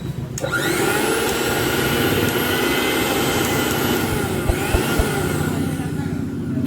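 Mixer grinder's motor switched on and running at high speed: its whine rises in pitch in the first half second, then holds steady.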